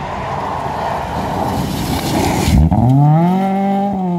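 Volvo 240 rally car at speed, heard from on board: a loud rush of gravel and tyre noise, then about two and a half seconds in the engine note climbs quickly and holds high.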